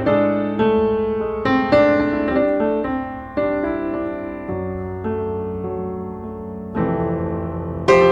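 Background piano music: soft chords struck every second or two, each ringing and fading away.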